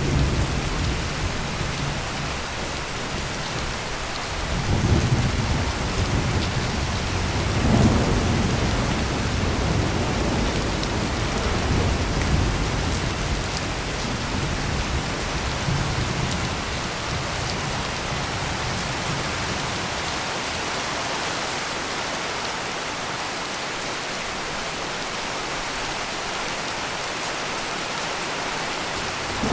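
Heavy rain pouring steadily, with thunder rolling in deep rumbles that swell about five and eight seconds in and fade out a little past the middle, leaving only the rain.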